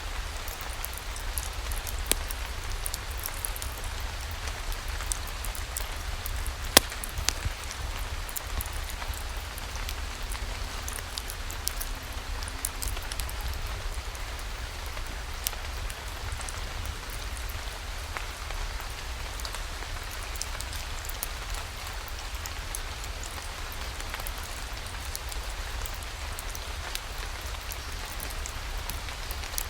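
Steady rain falling, with many scattered sharp ticks of drops and a steady low rumble underneath; one louder pop comes about seven seconds in.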